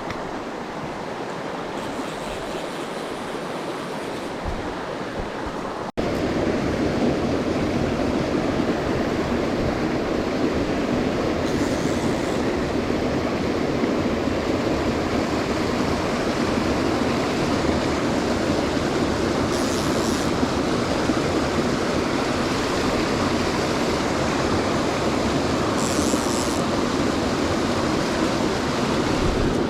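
Mountain stream water running over rocks, a steady rushing noise that becomes suddenly louder and fuller about six seconds in, as from closer to a cascade.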